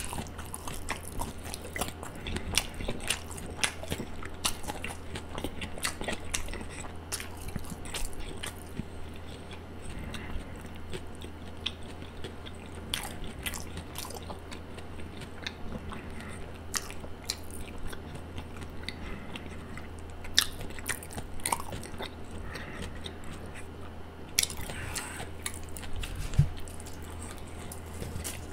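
Close-miked chewing of a Subway sandwich: many small wet mouth clicks and smacks over a steady low hum, ending with a loud bite into the sandwich.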